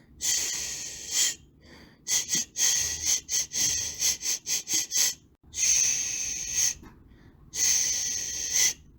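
A person shushing a baby, 'shh' sounds in bursts: a long shush near the start, a run of quick short shushes in the middle, then two more long shushes of about a second each.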